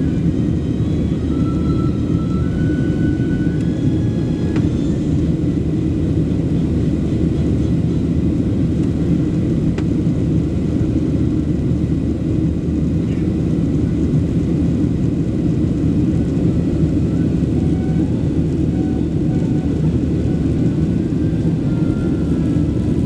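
Steady roar of a Boeing 737 Next Generation's jet engines and airflow, heard inside the passenger cabin.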